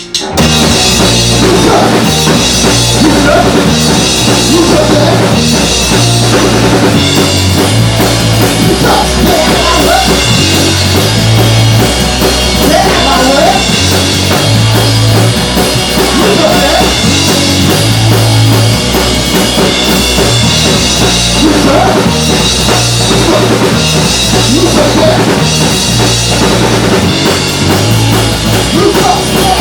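A rock band playing loud, with a full drum kit and a repeating bass line; the music cuts in abruptly just after the start.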